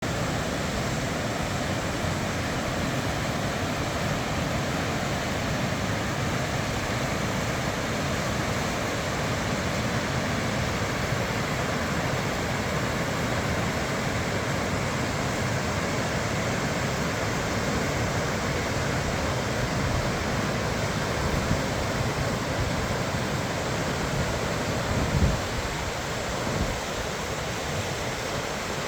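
Tröllafoss waterfall rushing in a steady, even roar of falling water, with one brief low bump near the end.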